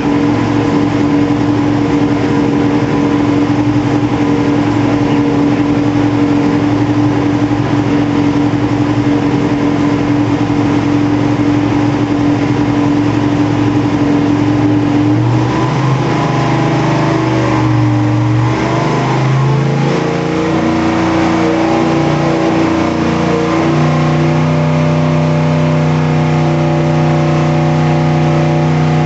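632 cubic-inch big-block Chevrolet V8 running loud on an engine dyno at a steady speed during break-in. About 15 seconds in its pitch wavers and shifts for a few seconds, then it settles at a different steady speed.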